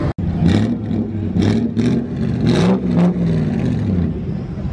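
Car engine revving, its pitch rising and falling several times, with short rushing bursts of noise between the revs.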